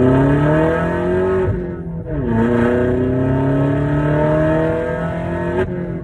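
Turbocharged Vauxhall Corsa with a straight-piped, decatted Cobra exhaust accelerating hard, the engine note climbing steadily then dropping at an upshift about 2 s in, climbing again and dropping at another shift near the end.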